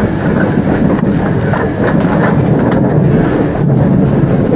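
Inside a Class 387 electric multiple unit under way: a steady loud rumble of wheels on rails and running gear, with a few sharp clicks as the wheels pass over rail joints.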